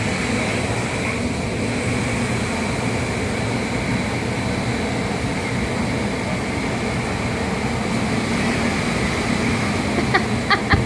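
Strong wind rushing and buffeting the microphone in a steady loud roar. Near the end a few short, sharp sounds come through.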